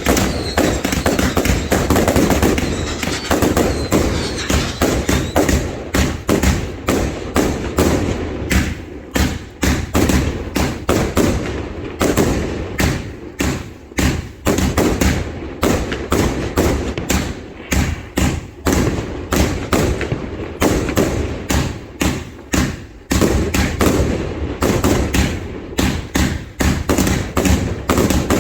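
A fireworks barrage firing without a break: shots and bangs in quick succession, several a second.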